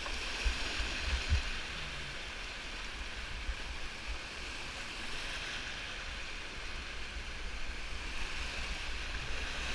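Whitewater river water rushing steadily, with a low rumble and a few low thumps in the first second and a half.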